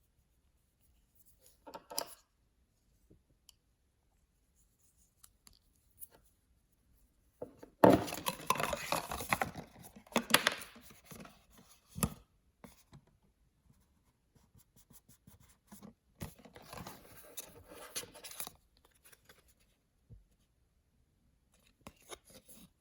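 Blind-bag and toy packaging being handled and opened: crackling and tearing of paper and wrapping, in separate bursts with quiet between them. The loudest burst starts about eight seconds in.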